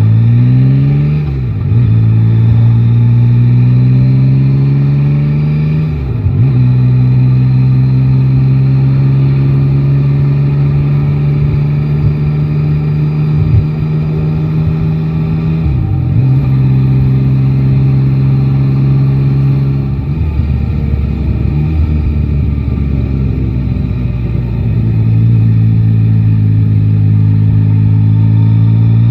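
Three-cylinder motorcycle engine under way: it pulls up through the gears with brief dips at each shift, holds a steady cruise, then eases off and picks up speed again near the end.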